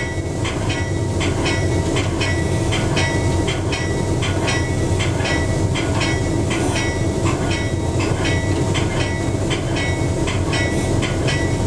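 Train running, with a steady low rumble and a high-pitched sound repeating about every two-thirds of a second.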